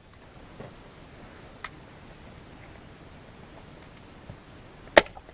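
Manual T50 staple gun firing staples through leather into a plastic seat base. Two sharp snaps, a lighter one under two seconds in and a loud one near the end, with faint handling ticks between.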